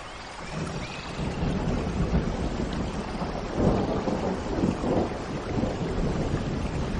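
Steady rain with a low rumble of thunder that builds about half a second in and swells loudest midway, and a few faint bird chirps near the start.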